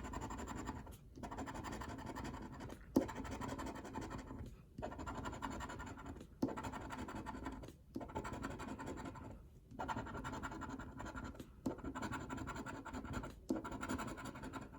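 Scratch-off lottery ticket being scratched: the coating rasped off in runs of strokes, with brief pauses every second or two.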